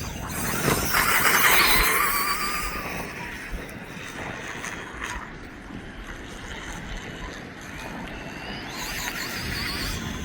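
Electric RC dirt bike's motor whining as it rides past, loudest about a second in and falling in pitch, over wind noise; another whine comes in near the end.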